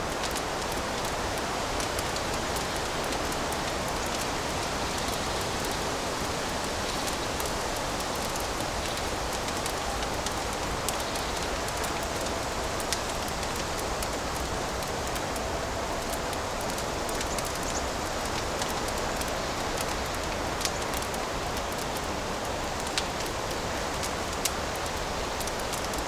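Fireplace fire crackling: a steady hiss with a sharp pop every few seconds.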